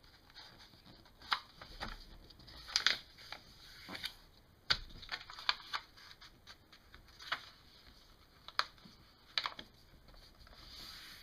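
A large sheet of paper being handled and folded, with irregular rustles and sharp crinkling clicks as it is lined up and creased.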